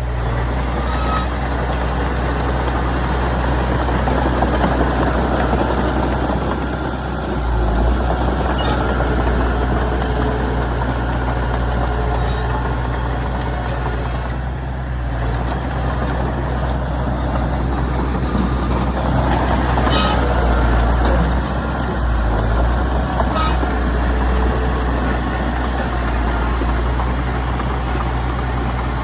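Heavy diesel earthmoving engine running steadily, with a few short sharp knocks.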